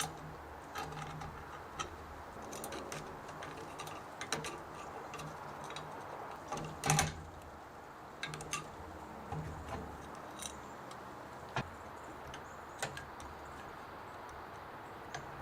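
Small metal carburetor parts and hand tools being handled on a bench during a carburetor rebuild: scattered light clicks and clinks, with one louder clunk about seven seconds in.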